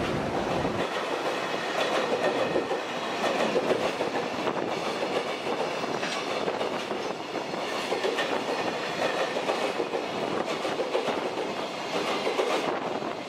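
Freight train's container flatcars rolling past, wheels clacking over the rail joints in a continuous stream of irregular clicks over a steady rolling noise.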